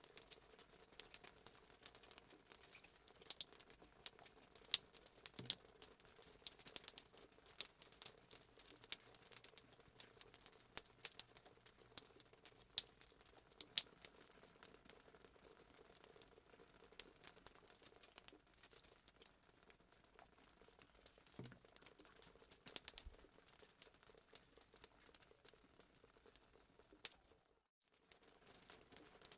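Fireplace sound effect: a wood fire crackling with many small, irregular pops, faint throughout. It cuts out for a moment near the end.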